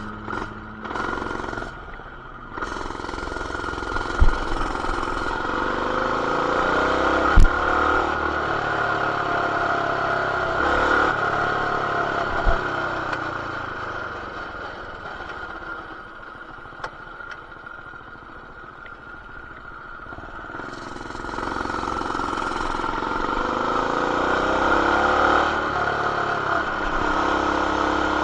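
Baja BT200X mini bike's single-cylinder four-stroke engine, fitted with an aftermarket header and RLV exhaust, running as the bike is ridden. The revs rise and fall, ease off in the middle and pick back up near the end, with a few sharp knocks along the way.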